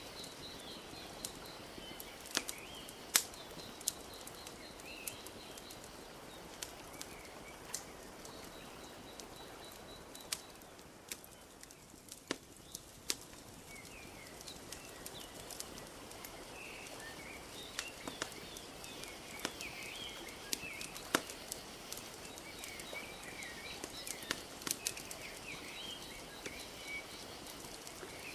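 Wood fire crackling, with sharp irregular pops, over a soft steady wash of lake water lapping at the shore. Small birds chirp throughout, more busily in the second half.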